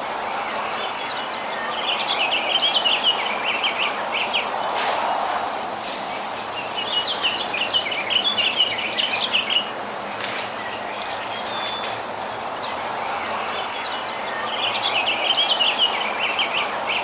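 Small birds chirping in three bouts of rapid, twittering chirps about five seconds apart, over a steady hiss of outdoor background noise.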